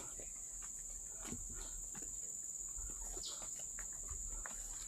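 Steady high-pitched drone of forest insects, with faint scattered knocks and a short bird call about three seconds in.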